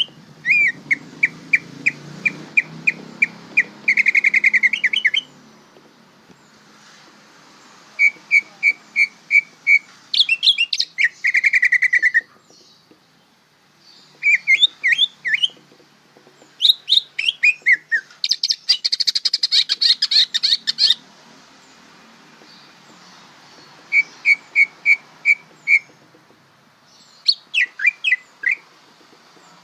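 Greater green leafbird (cucak ijo) singing in bouts of rapid repeated chips and trills, with sharply falling whistled notes and a dense chattering burst just past the middle, broken by short pauses. This is the bird's full song (bongkaran), sung by a bird that is still learning to sing.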